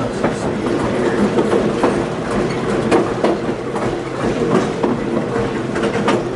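Diesel-hauled excursion train running along the track: a steady rumble with wheels clicking irregularly over the rail joints.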